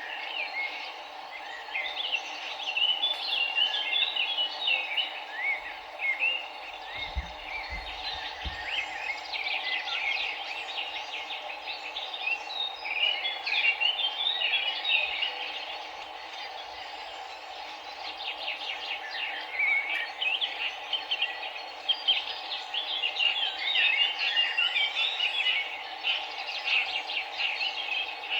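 Steady rush of river water with a chorus of small birds chirping and twittering over it in repeated bouts. There is a brief low rumble about seven seconds in.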